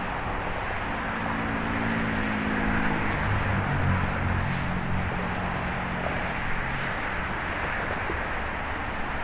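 Steady roar of nearby highway traffic, with the low hum of a passing vehicle's engine over the first few seconds.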